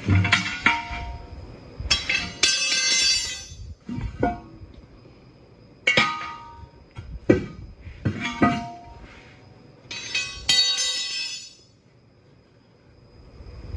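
Steel tire tools clanking against the steel rim of a truck wheel during a manual tire change: about eight sharp metallic strikes at uneven intervals, each ringing out for around half a second.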